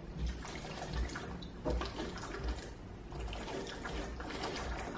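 Chewing and wet mouth sounds of someone eating close to the microphone, with faint small clicks.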